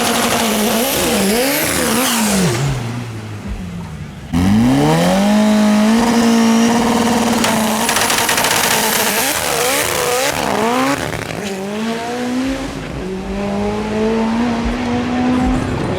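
Drag racing car's engine revving hard, its pitch climbing and dropping repeatedly. About four seconds in it jumps sharply louder and is then held at high revs, with quick rises and falls and bursts of harsh hiss.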